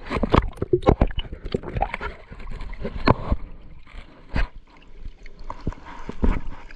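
Water sloshing and splashing, with irregular knocks and thumps throughout.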